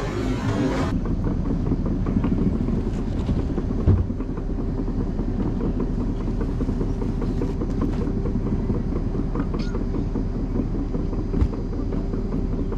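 Truck driving on the road: a steady engine and road rumble with light rattles, and one louder knock about four seconds in. A music cue fades out in the first second.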